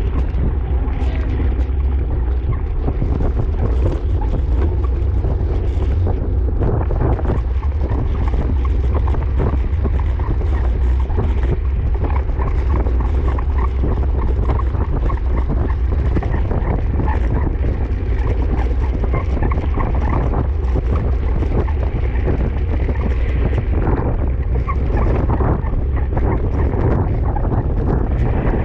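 Wind buffeting the microphone of a moving camera during a bicycle race, a loud, steady low rumble.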